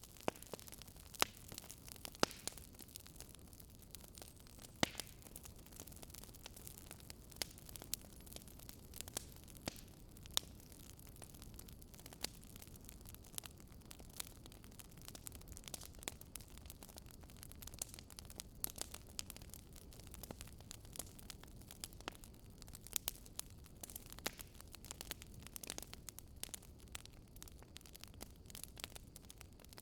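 Wood fire burning, with irregular sharp crackles and pops from the burning wood over a low steady hiss.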